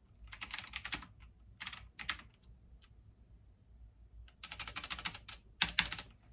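Computer keyboard typing in quick bursts of keystrokes: a run about a second long, a shorter one, a pause of about two seconds, then a longer run near the end.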